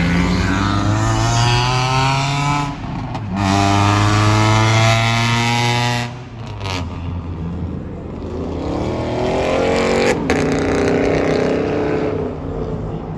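A car engine accelerating hard, rising in pitch, dropping briefly at a shift about three seconds in and rising again until about six seconds in. A second run of revving follows, ending in a single sharp crack about ten seconds in.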